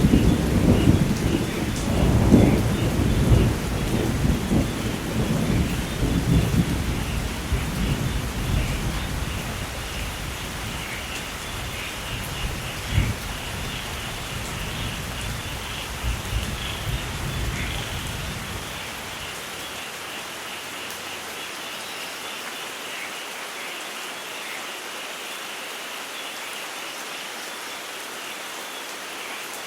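Thunder rumbling and slowly dying away over steady rain, with a short sharp crack about halfway through; by about two-thirds of the way in only the rain remains.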